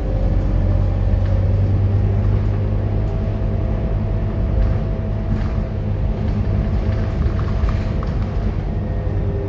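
Scania K230UB city bus's five-cylinder diesel engine running under way: a steady low drone with a faint whine held through the middle.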